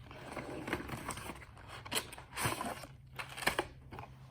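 A car stereo's packaging being opened by hand: irregular rustling and crinkling of box and plastic wrap, with a few sharp clicks and knocks.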